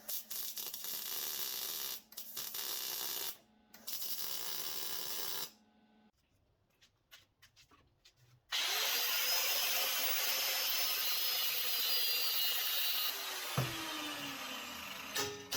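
An electric power tool working in stop-start bursts. After a short quiet spell it starts up again, its whine rising as it spins up, runs steadily for about four seconds, then is switched off and winds down with a falling pitch.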